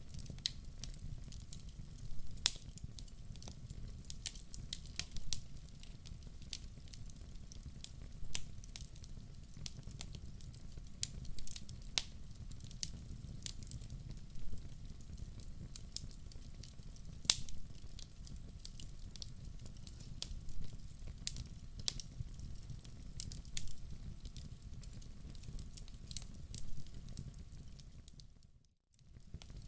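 Logs burning in a fireplace: a steady low rumble of the fire with frequent irregular crackles and pops. The sound cuts out briefly near the end.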